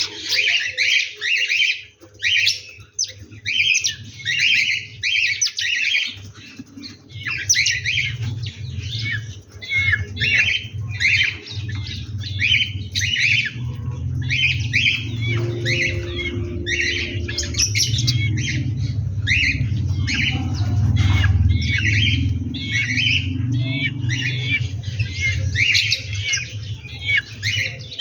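Birds calling over and over in quick succession, several short calls a second with no pause, over a steady low rumble that grows louder in the middle.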